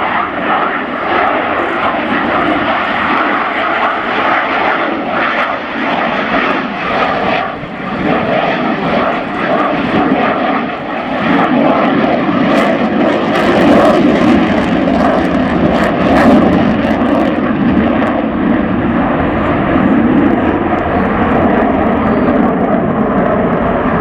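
Dassault Rafale fighter's twin turbofan jet engines running during a flying display: a loud, continuous jet rush that grows louder about halfway through.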